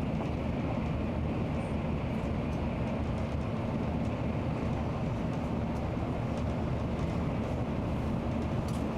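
Nozomi Shinkansen bullet train running, a steady low rumble with a hiss above it.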